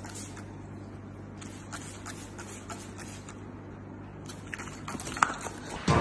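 A hand-held trigger spray bottle clicking and spritzing a few times, the sharpest click about five seconds in, over a steady low hum.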